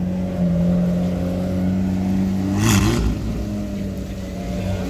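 A car engine running steadily at low revs, with a quick throttle blip about two and a half seconds in.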